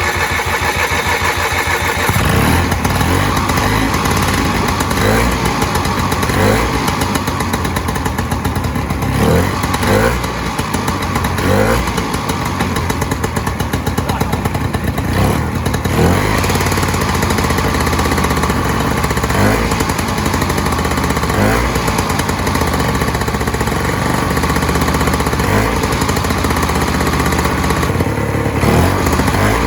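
Vintage snowmobile's two-stroke engine running steadily after being started on fuel primed through the spark plug port, with small swells in speed.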